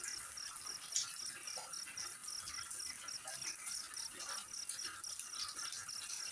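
An insect, likely a cricket, chirping in an even rhythm of about four high pulses a second over a steady hiss of running water, with other faint chirps scattered through.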